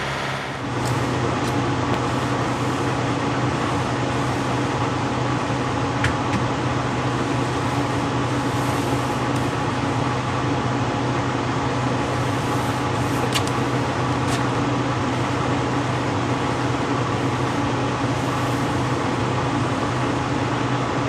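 Steady engine and road noise inside the cab of a Kenworth W900 semi truck at cruising speed, with a few faint ticks.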